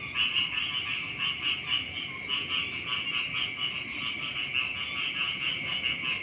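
Chorus of many frogs calling at once, a dense, unbroken mass of rapid pulsed croaks, with a steady high tone running underneath.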